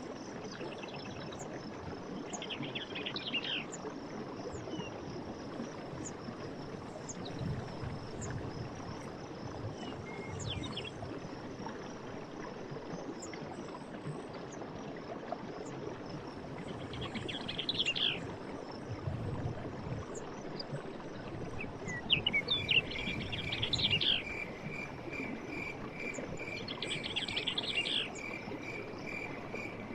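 Forest ambience: a continuous hiss of running water under a steady high insect trill, with birds singing short phrases every few seconds. About two-thirds in, a steady pulsing trill joins and runs on.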